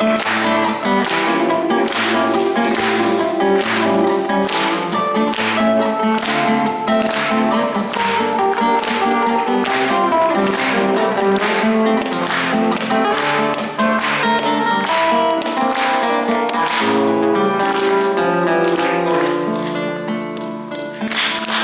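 Acoustic guitar strummed in a steady rhythm of about two strokes a second, playing an instrumental break in a bard song.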